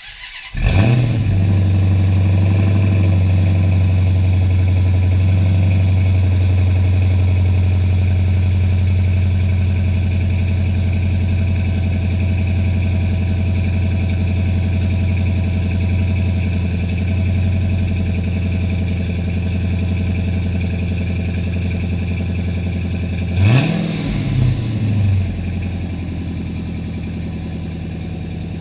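Dodge Challenger R/T's 5.7-litre Hemi V8 starting up through a 3-inch cat-back exhaust with Spintech Pro 6000 mufflers, then idling steadily. About 23 seconds in it is given a couple of short revs, then settles back to a slightly quieter idle.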